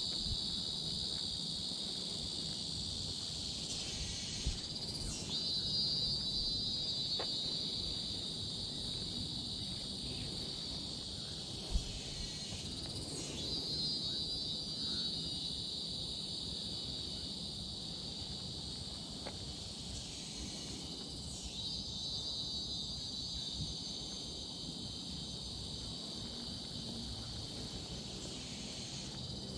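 A steady high-pitched insect chorus, dipping and sweeping back up in roughly eight-second cycles, over a low even background rumble. Two brief faint knocks stand out, one a few seconds in and one near the middle.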